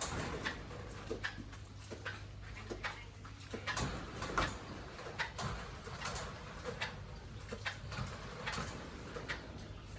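Pigs in a pen making short grunts and squeaks, mixed with scattered clicks and knocks, over a steady low hum.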